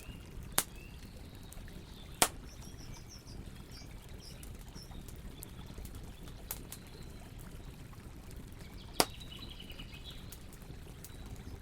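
Campfire burning with a steady low rush and scattered crackles, three of them sharp loud pops, while birds chirp faintly in the background.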